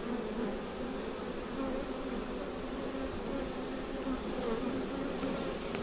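A swarm of honey bees buzzing: a steady, wavering hum of many bees flying around a nucleus box as the swarm starts to enter the frames.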